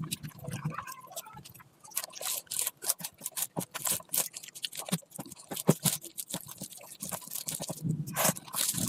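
Close-miked eating sounds: a person chewing food, with many quick, irregular wet mouth clicks and smacks.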